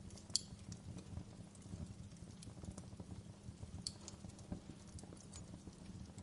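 Wood fire in a fireplace crackling: irregular small pops and snaps over a low, steady rumble of the flames, with a sharper pop about half a second in and another near four seconds in.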